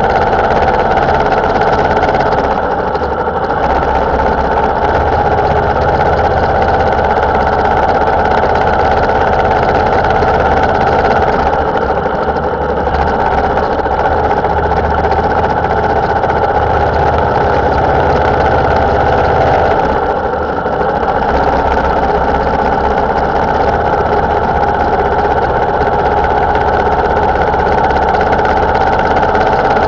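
Motorcycle engine running steadily under way, heard from a camera mounted on the bike. The level dips briefly about three seconds in, again around twelve seconds, and again around twenty seconds.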